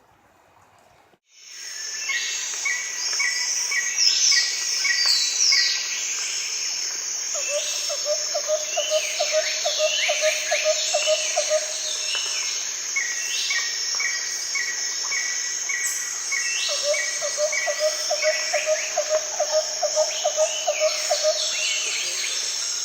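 Birds calling and singing over a steady, high insect buzz: rows of short repeated chirps, falling whistled notes, and twice a lower pulsing trill of several seconds. The sound starts abruptly about a second in.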